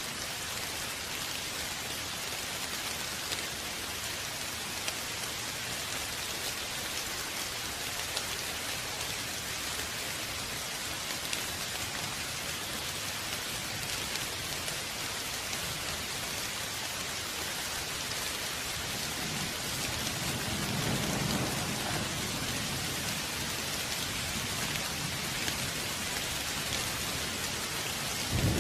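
Steady rain falling, with a dense hiss and scattered drop ticks. Low rumbling thunder swells about two-thirds of the way through, and a heavier roll of thunder breaks in right at the end.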